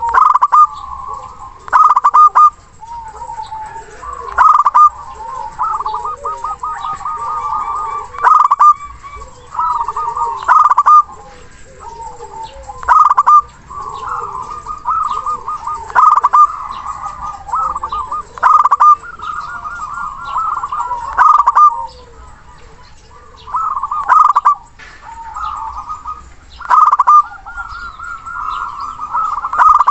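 Zebra doves (perkutut) cooing over and over, with a loud cooing phrase every two to three seconds over softer continuous cooing and fainter, lower calls.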